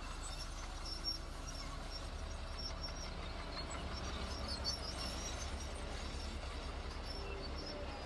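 Heavy construction machine's diesel engine running, a steady low rumble that grows a little heavier about two seconds in, with faint scattered high ticks over it.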